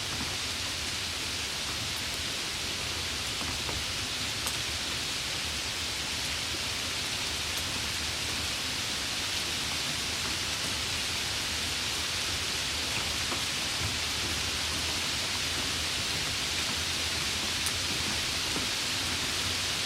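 Steady rain falling: an even hiss, with a few single drops ticking now and then.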